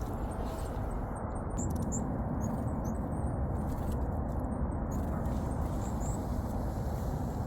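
Small wild birds giving short, high chirps scattered through, over a steady low rumble.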